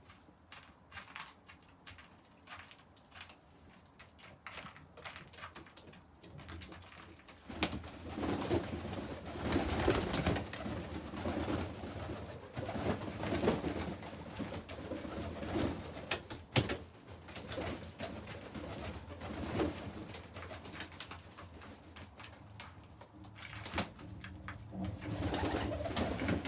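Domestic pigeons cooing in a loft, the cooing starting about seven seconds in and carrying on, with faint scattered clicks before it.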